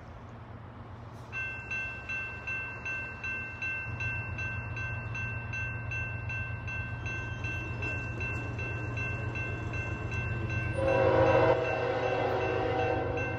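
Norfolk Southern ES44AC diesel locomotive approaching at the head of an intermodal train, its low engine rumble growing louder, with one short horn blast about eleven seconds in. A bell starts ringing about a second in and keeps a quick, even beat of about three strikes a second.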